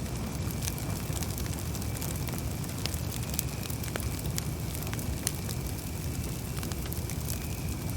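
Campfire burning with a steady low rumble and scattered sharp crackles and pops of the wood.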